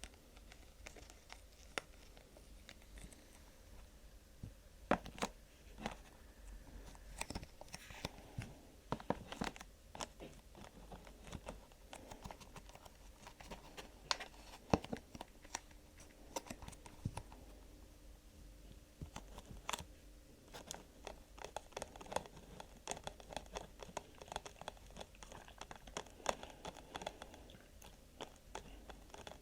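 Hands tapping, scratching and crinkling ASMR materials, heard as a string of irregular sharp clicks and short rustles.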